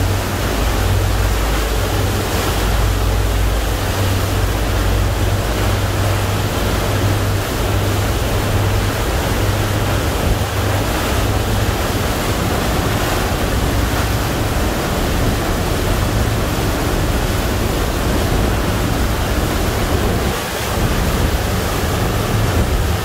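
Wind buffeting the microphone over the steady rush of big sea waves around a ferry under way, with a heavy low rumble throughout and a brief dip about twenty seconds in.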